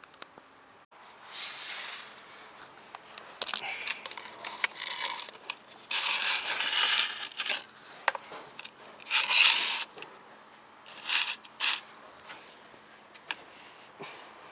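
Irregular scraping, creaking rubs in bursts of up to about a second, with sharp clicks between them: the abnormal noise from a Toyota Esquire that the uploader ties to a shock absorber.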